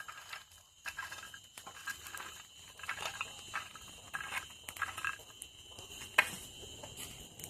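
Roasted nuts being cracked open, a run of irregular sharp cracks and crunches with the loudest crack about six seconds in, over a steady high-pitched tone in the background.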